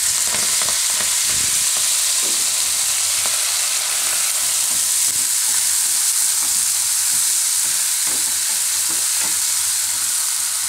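Fresh fenugreek leaves sizzling steadily in hot oil in a non-stick kadai, stirred with a wooden spatula whose repeated strokes scrape and toss the leaves against the pan.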